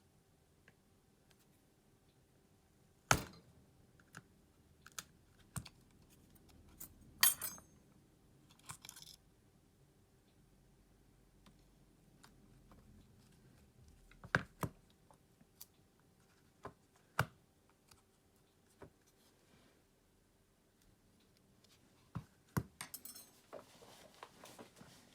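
Sparse sharp clicks and taps of small repair tools and smartphone parts being handled, with a short scraping sound about seven seconds in and a quick run of clicks and scratching near the end.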